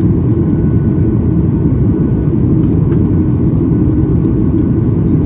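Steady low rumble of engine and airflow noise heard inside the passenger cabin of a Boeing 737 MAX 8 airliner, with a few faint ticks.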